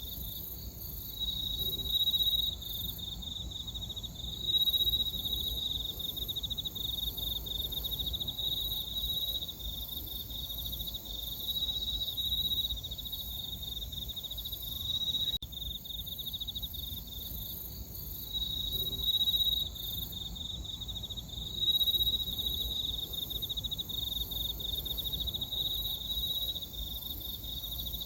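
Crickets chirping in a steady chorus: a fast, pulsing trill, high-pitched, with several louder swells that come and go.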